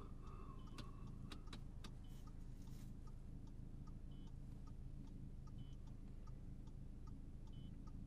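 Inside a running car: a steady low engine and road rumble, with a faint, regular light ticking at about three ticks a second.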